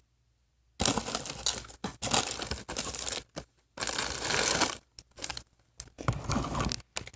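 Plastic packaging crinkling and tearing as it is handled, in irregular bursts starting about a second in.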